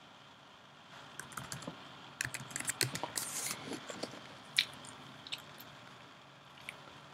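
An irregular run of small clicks and crackles lasting a few seconds, with one sharper click near the middle, over a faint steady hum.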